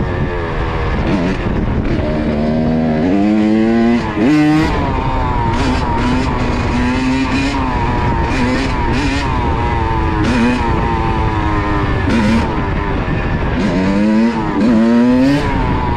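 Kawasaki KX85 dirt bike's two-stroke single-cylinder engine being revved up and down over and over under throttle while the rider works to hold a wheelie. The pitch climbs sharply about four seconds in and again near the end.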